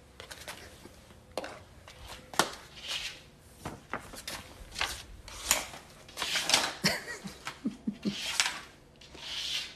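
A cat pawing and scratching at a hard floor around an open coffee jar, with irregular knocks and clinks as it bumps the jar and lid and drags a sheet of paper across it. This is a cat's burying behaviour: it is trying to cover the coffee as it would its droppings.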